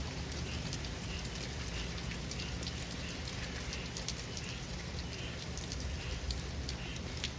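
Steady rain falling, with many individual drops ticking sharply close by. A faint high call repeats about every two-thirds of a second under the rain.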